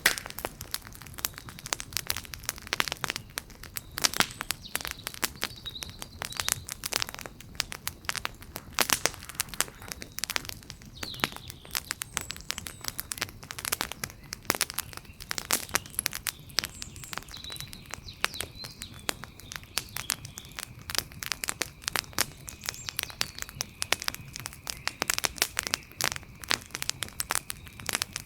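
Wood fire crackling, with frequent sharp, irregular pops and snaps over a soft hiss.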